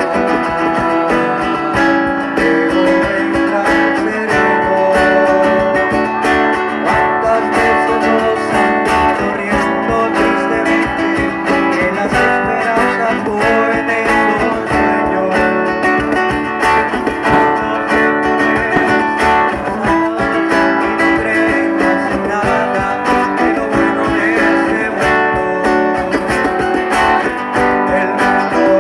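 Guitar music, with notes plucked and strummed.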